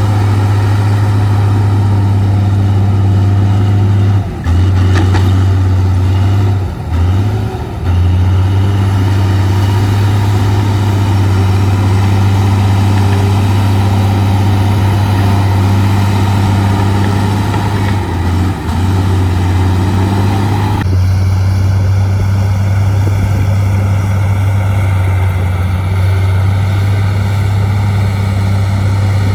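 Heavy dump truck's diesel engine running steadily with a deep, constant drone, briefly dipping a few times.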